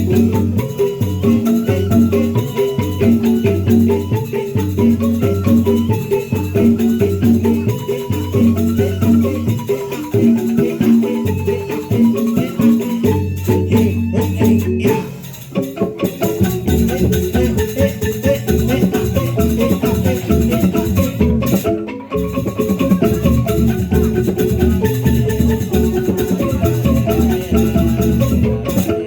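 Traditional ensemble music of tuned mallet percussion played in repeating patterns, with rattling, shaker-like percussion. The music dips briefly about halfway through, and the pattern changes after it.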